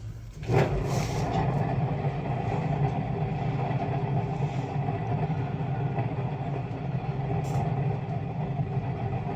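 Hotpoint washing machine drum turned by hand, its bearings giving a steady rumbling noise that starts about half a second in: the drum bearings are damaged.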